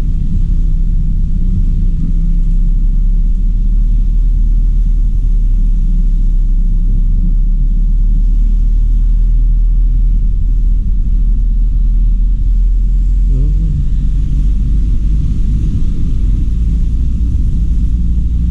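Car engine and road noise, a steady low rumble while driving.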